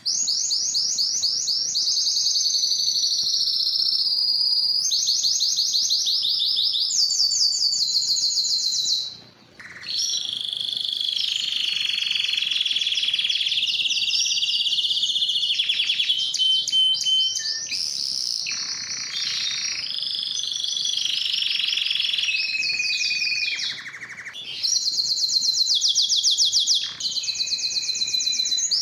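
Spanish timbrado canary singing a long, continuous high song of fast rolling trills, switching from one trill to the next every couple of seconds, with one short break about a third of the way through.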